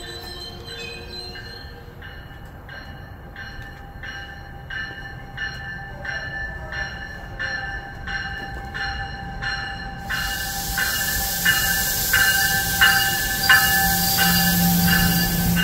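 New Jersey Transit train at the platform: an even, repeated ringing at about one and a half strokes a second over a steady whine. From about ten seconds in a loud hiss joins and the train noise grows louder.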